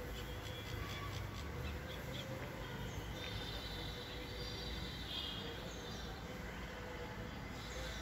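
Faint high bird chirps and calls over a steady low background rumble, busiest from about three to six seconds in.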